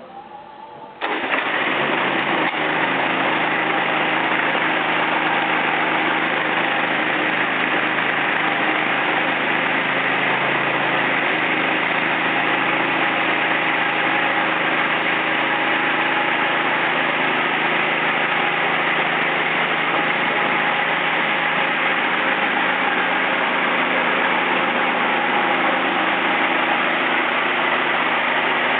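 Gas-powered dual-disc concrete floor grinder starting up about a second in, then running steadily.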